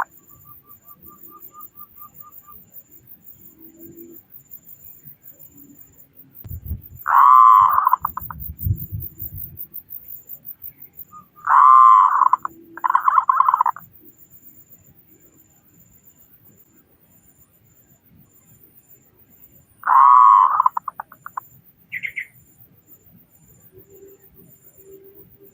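Zebra dove (perkutut) cooing in short, rapidly trilled coo phrases: one about 7 seconds in, two back to back near 12 seconds, and another about 20 seconds in. A faint low rumble comes in around 7 to 9 seconds.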